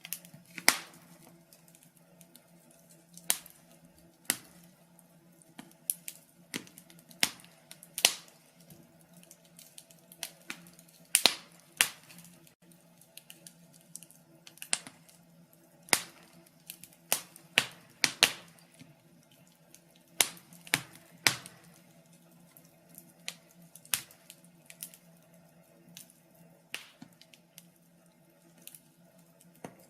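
Wood fire crackling in a fireplace: irregular sharp snaps and pops, sometimes in quick clusters, over a faint steady low hum.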